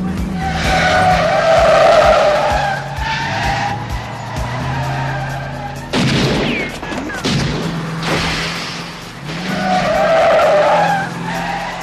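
Film car-chase sound effects: car engines revving hard, with tires squealing in two long stretches, near the start and again near the end. A sudden loud noisy burst comes about six seconds in, with music underneath.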